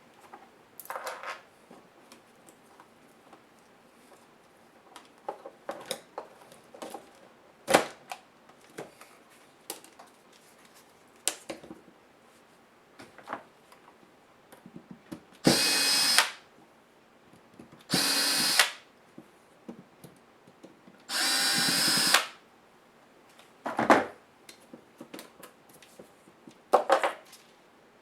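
Small power driver running in three short bursts of about a second each, backing out laptop screws, with scattered clicks and taps of small screws and plastic parts being handled in between.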